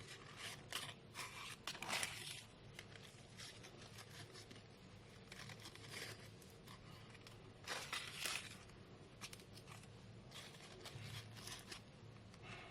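Crepe paper petals rustling and crinkling faintly and on and off as they are handled and fixed around a wire stem, loudest about two seconds in and again around eight seconds.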